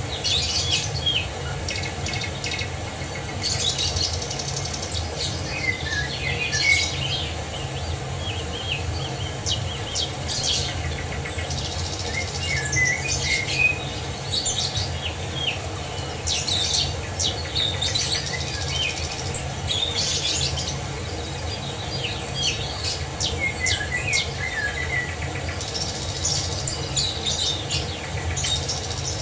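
Several songbirds chirping and trilling almost continuously over a steady low rush of falling water.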